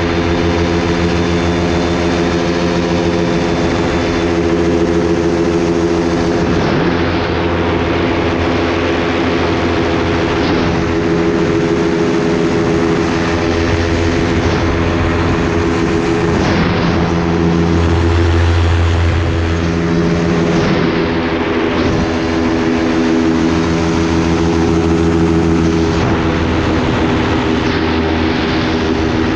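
Propeller aircraft engine running steadily, a constant drone with no change in power.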